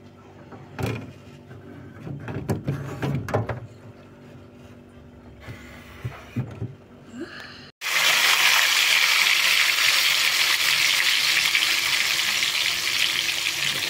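Soaked cassava sticks frying in hot oil in a wok: a loud, steady sizzle that starts abruptly about eight seconds in. Before it come scattered knocks and clatters of a plastic food tub being handled and set into a refrigerator.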